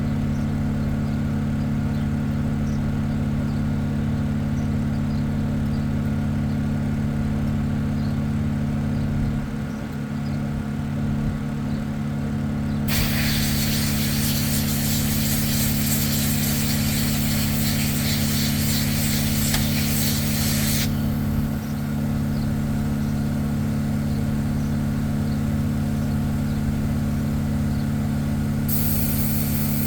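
Inexpensive Harbor Freight paint spray gun hissing as it sprays a water-and-solvent cleaning mix through to flush it out: one long blast of about eight seconds starting roughly halfway, and another starting near the end. A steady low machine hum runs underneath.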